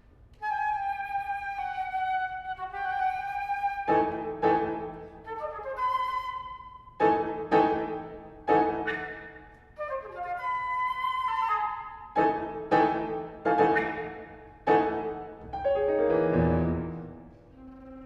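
Flute and piano playing contemporary classical music: the flute holds long notes and short figures, while the piano strikes sharp, ringing chords every second or two, with a low, heavy chord near the end.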